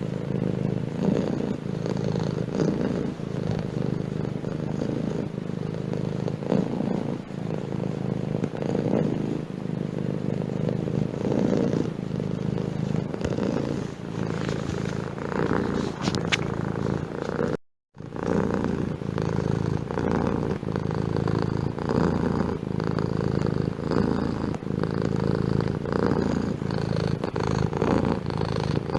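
Domestic cat purring steadily and close up. The sound drops out completely for a moment about two-thirds of the way through, then the purring resumes.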